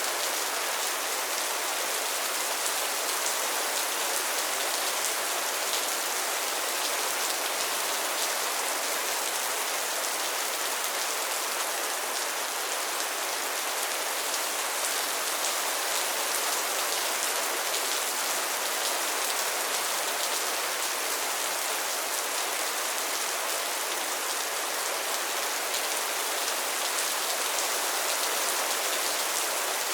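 Steady rain falling on a pond's water and lily pads: an even hiss of many small drops striking the surface, with no let-up.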